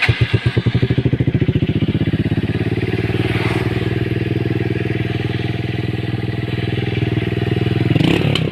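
TVS Sport's single-cylinder four-stroke engine idling through a silencer with a small hole drilled in it, giving a loud, evenly pulsing exhaust note. It begins to rev near the end.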